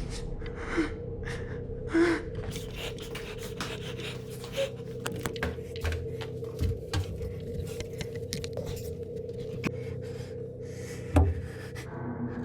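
A man breathing hard with gasps, over a steady electrical hum and scattered small clicks and scrapes.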